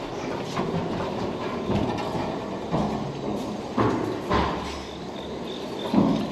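Low, steady rumble of a train at a rail station, with several separate knocks and thuds over it.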